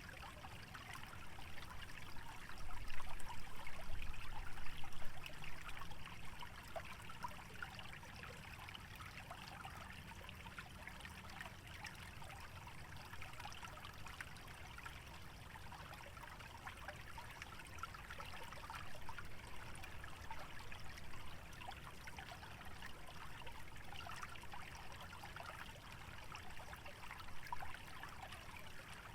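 Small stream trickling and babbling over a shallow bed through wetland, a steady flicker of water. A low rumble swells for a few seconds near the start.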